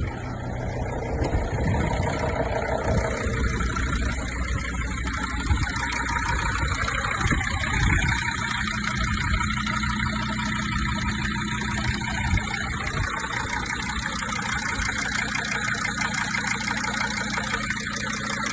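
Mercedes OM612 2.7 CDI five-cylinder common-rail diesel, swapped into a VW Crafter, running at a steady idle.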